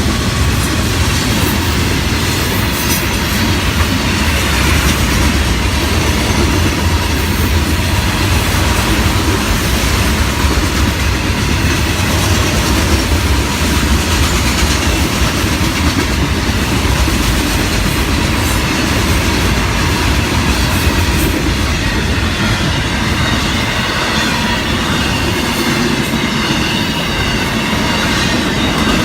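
Florida East Coast Railway freight train's cars rolling past at close range: a steady rumble of steel wheels on rail with a clickety-clack over the rail joints and some wheel squeal.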